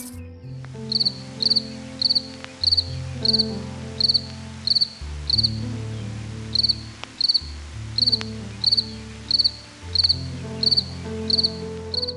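Cricket chirping in a steady rhythm, about one and a half short pulsed chirps a second, with a brief pause near the middle. It plays over soft background music of low, held notes.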